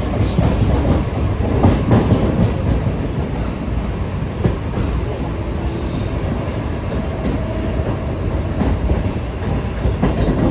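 Running noise of a Mumbai suburban local train heard from on board: a steady rumble of wheels on the track with occasional sharp clacks over rail joints. A faint high wheel squeal comes in a little past halfway.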